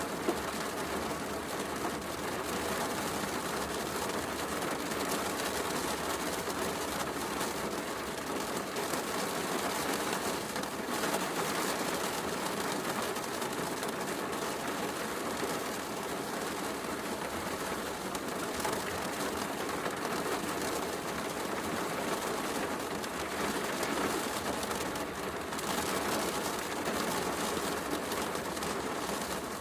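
Heavy rain falling steadily, mixed with a fireplace crackling, with one sharp pop just after the start.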